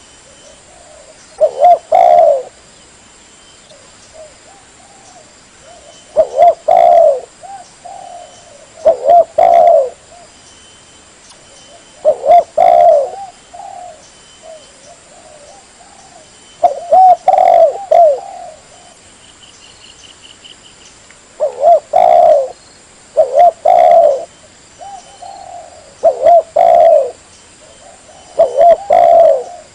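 Spotted dove (tekukur) cooing: a loud, low phrase of a few hooting notes about every two to five seconds, with softer, quieter coos between the phrases.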